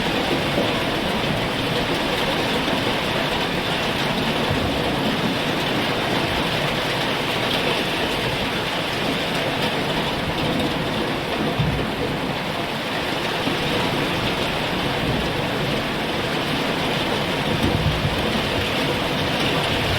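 Heavy rain falling steadily in an even, dense hiss, with a brief low rumble about halfway through and another near the end.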